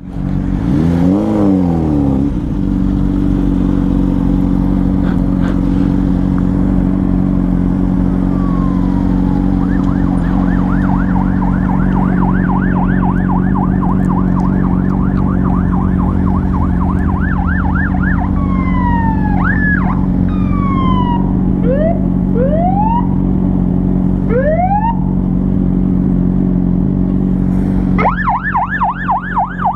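Emergency vehicle siren over a steady engine idle. About ten seconds in the siren starts a rapid yelp. It breaks into separate rising and falling whoops for a while, then the rapid yelp returns near the end.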